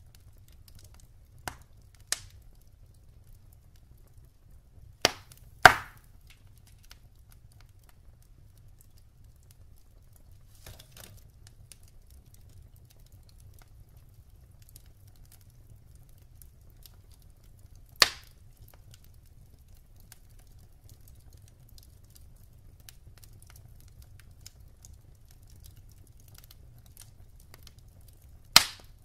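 Wood fire burning in a fireplace, crackling with scattered sharp pops, the loudest about six seconds in, again midway and near the end, over a faint low rumble.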